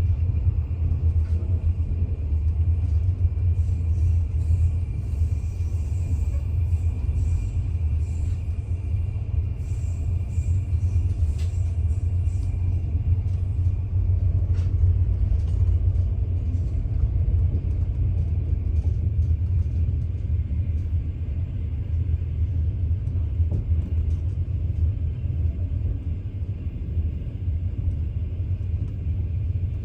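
Passenger train running, a steady low rumble heard from inside the carriage, with a faint steady high whine and occasional light ticks.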